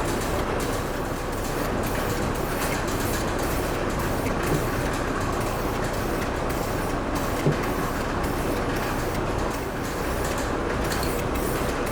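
A steady, noisy mechanical running sound at an even level, with two small knocks, about four and a half and seven and a half seconds in.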